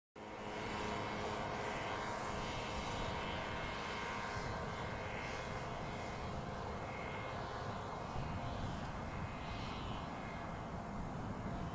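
Boeing 777-300ER's GE90 turbofan engines on approach to land: a steady jet drone with a whining tone, its hiss wavering up and down as the airliner moves.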